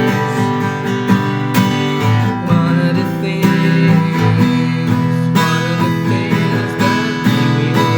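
Song with acoustic guitar strumming chords in a steady rhythm.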